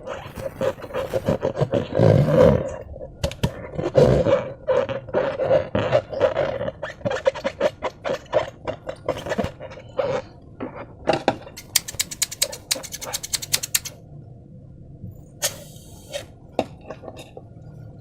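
Slime being squeezed and squished by hand, a dense run of wet squelches and sticky pops, followed about two-thirds through by a few seconds of fine, rapid crackling.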